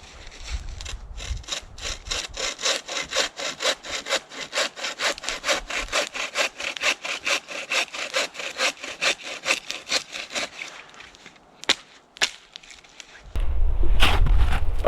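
Hand saw cutting through wood, in quick even strokes, about four a second. It stops after about ten seconds, followed by two sharp knocks, and a loud low rumble takes over near the end.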